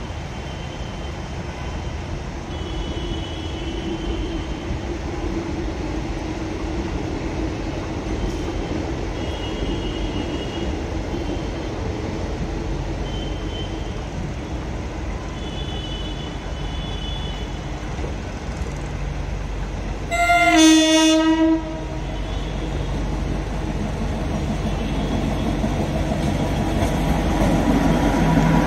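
Approaching Indian Railways passenger train running with a steady low rumble. Its horn sounds one blast of about a second and a half some twenty seconds in, the loudest sound. The running noise then grows louder as the train draws close and passes near the end.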